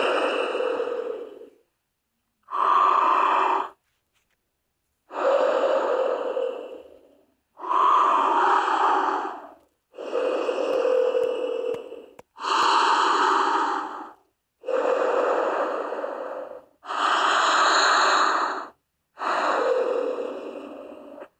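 A person breathing heavily and audibly: long, noisy breaths one after another, about nine in all, with short silent gaps between them.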